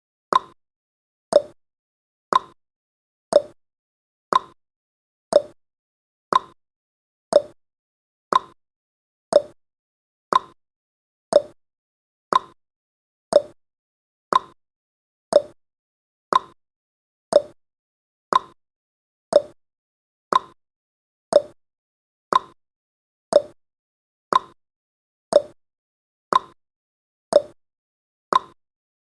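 Countdown timer's tick sound effect: a short, sharp blip repeating steadily once a second, marking each second of the count.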